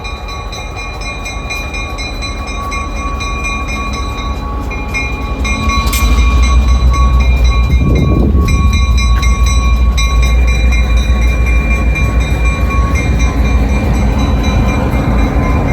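Pair of EMD GP38-2 diesel-electric locomotives, each with a 16-cylinder two-stroke engine, hauling a freight train past, growing louder until about six seconds in and then a steady heavy rumble.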